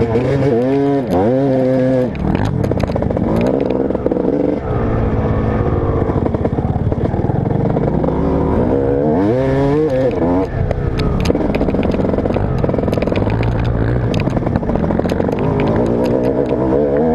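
Motocross bike engine revving up and down again and again as it is ridden, pitch climbing and dropping every second or two, with scattered sharp clicks and rattles over it.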